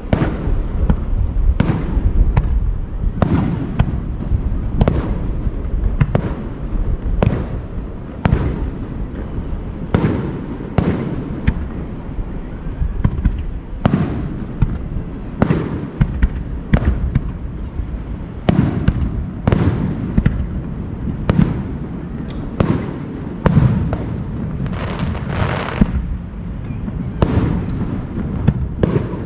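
Aerial fireworks bursting in rapid succession, about one or two sharp bangs a second, each trailing off in a rumbling echo, over a continuous low rumble. Near the end a few of the bursts are followed by a longer crackling hiss.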